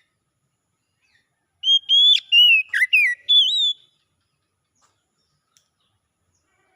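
Oriental magpie-robin (kacer) singing one short song phrase of clear whistled notes that glide up and down, lasting about two seconds.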